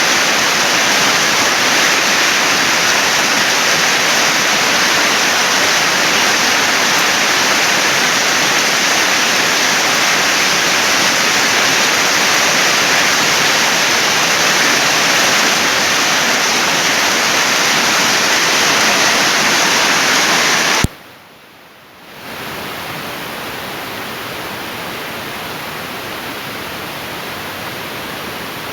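Heavy storm rain pouring down in a steady loud rush. About 21 seconds in it cuts off abruptly with a click, and after about a second of quiet it resumes somewhat quieter.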